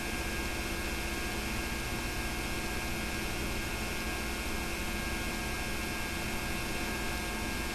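Steady electrical mains hum with an even background hiss and no other sound, the noise floor of a home-made tape recording.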